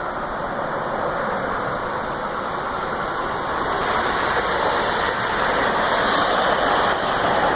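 Metro-North M8 electric train running past at speed: a steady rush of wheels on rail that grows slightly louder.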